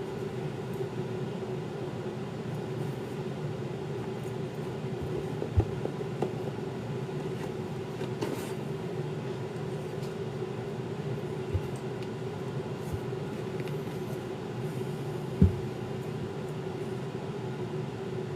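Steady mechanical hum with a constant mid-pitched tone, broken by a few short knocks, the loudest about five and a half seconds in and again near fifteen seconds.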